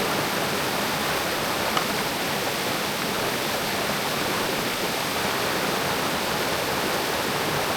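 Mountain creek water rushing, a steady even hiss of flowing water.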